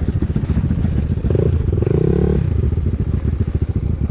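Enduro motorcycle engine running at low revs, its firing pulses steady, with a brief rise and fall in engine note around the middle.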